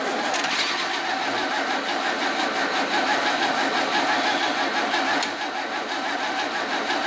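Mercedes-Benz straight-six engine with twin carburettors running steadily.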